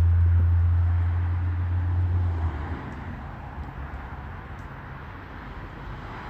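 Low steady rumble of a motor vehicle engine, loud for about the first two and a half seconds, then dropping to a fainter hum.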